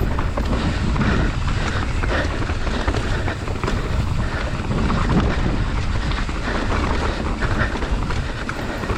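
Mountain bike descending a rocky technical trail at speed: wind buffets the camera microphone while the tyres rumble over rock and the bike rattles with many small knocks.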